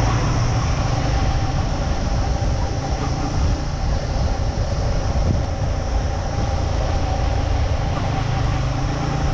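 Motorcycle engine running while under way, with steady wind rumble on the microphone.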